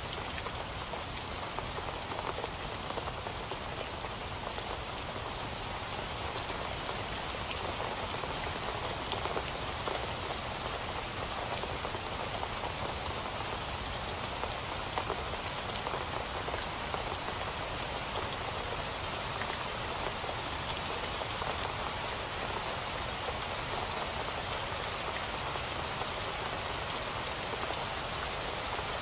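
Steady rain falling on a surface, an even hiss made of many fine drop ticks.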